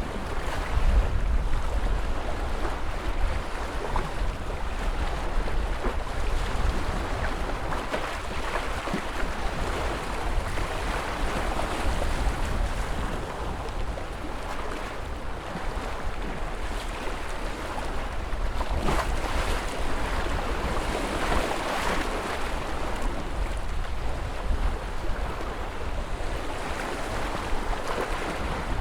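Ocean surf: a continuous rush of waves washing in, swelling louder now and then, with a low wind rumble on the microphone underneath.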